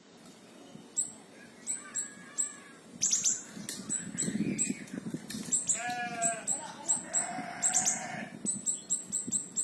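Small siri-siri bird calling in rapid 'tembakan' shots: short, very high-pitched notes repeated several times a second, coming thicker in the second half. A lower, wavering bleat sounds about six seconds in and again a moment later.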